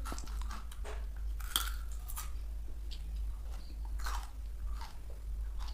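A person biting into and chewing a raw potato, with scattered irregular crunches.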